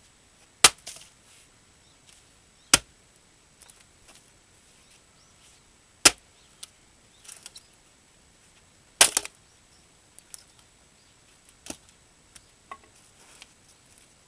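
An axe striking a dried larch log to split it, working around the outer edge of the round. There are four loud, sharp blows a few seconds apart, then smaller knocks and ticks of wood near the end.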